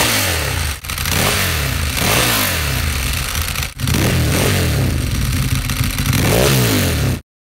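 Ducati Streetfighter V-twin revved repeatedly, its pitch rising and falling with each blip, in three clips joined back to back with sharp cuts about a second in and near four seconds. It stops abruptly just before the end.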